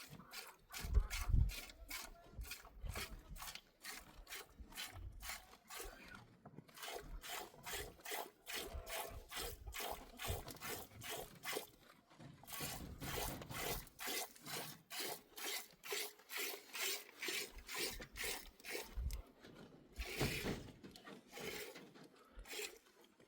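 Sheep being milked by hand: rhythmic rasping squirts of milk into a pail, about three a second, with a few short pauses.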